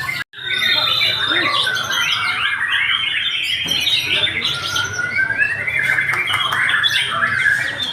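Many caged songbirds singing at once: a dense, overlapping chorus of chirps, trills and whistles. The sound cuts out for an instant about a third of a second in.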